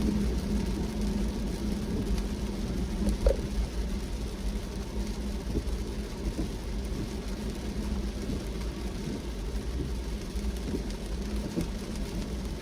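Car driving in the rain: a steady low engine and road rumble with a constant hum, light scattered ticks of rain, and a single knock about three seconds in.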